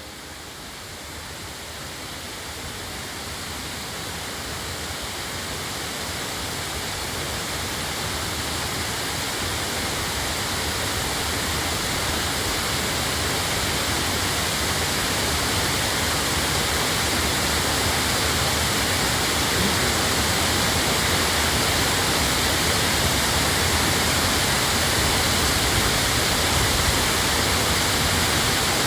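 Waterfall rushing, a steady dense roar of falling water that grows louder over the first ten seconds or so and then holds steady.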